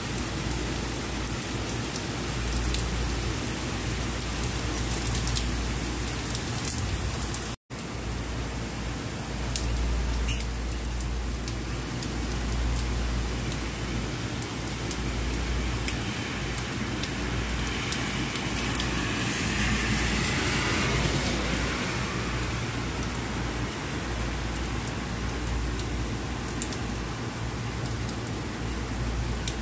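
Steady heavy rain falling on a city street and wet pavement. The hiss swells for a few seconds past the middle, and the sound cuts out for an instant about seven seconds in.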